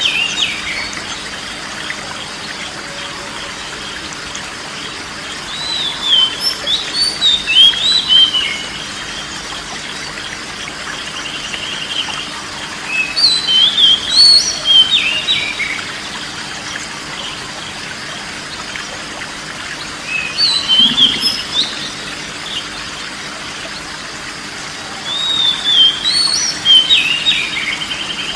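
Oriental magpie-robin (kacer) singing: short phrases of quick, varied whistled notes that slide up and down, repeated every five to seven seconds, over a steady faint hiss.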